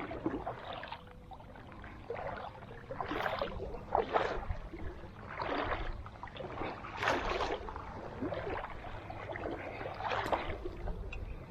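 Someone wading through shallow river water, with a splash and slosh at each stride, about one a second.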